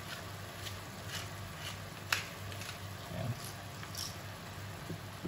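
Thinly sliced beef and onions sizzling in a frying pan, with scattered pops and crackles, the sharpest about two seconds in, over a low steady hum.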